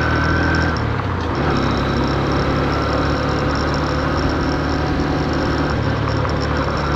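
Honda CB125F's air-cooled single-cylinder engine running at low revs, kept low because the engine is new and still being run in. Its note drops and dips briefly about a second in, then runs steady.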